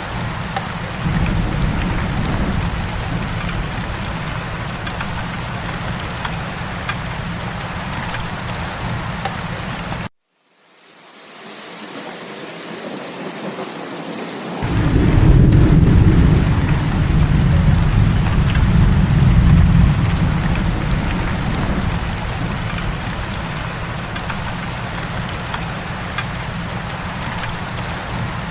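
Heavy steady rain with a low rumble underneath. About a third of the way in the sound cuts out abruptly to silence, then fades back in over a few seconds, as at a loop or edit seam. Soon after, a long low roll of thunder swells up, the loudest part, and dies back into the rain.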